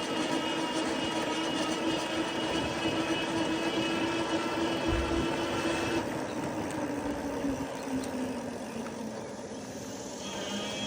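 Electric bike's hub motor whining steadily under power over rolling tyre and wind noise; about six seconds in the whine drops in pitch and thins as the rider eases off, then picks up again near the end.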